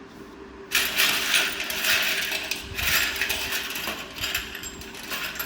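Metallic clicking and clattering of hand tools and engine parts, starting suddenly just under a second in and going on irregularly, with ratchet-like clicks.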